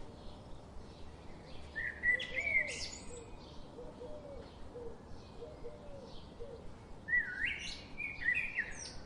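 Several wild birds singing and chirping. A louder bird sings a quick phrase of sweeping notes twice, about two seconds in and again about seven seconds in. Softer low notes and faint high chirps from other birds run between the two phrases.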